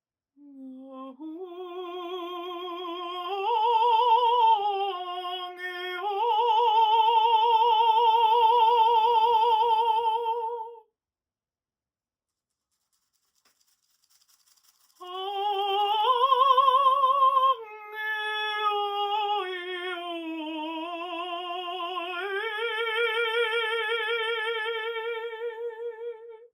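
A woman singing long held notes without words, with a strong vibrato and slow slides between pitches. She sings two long phrases with a silence of about four seconds between them.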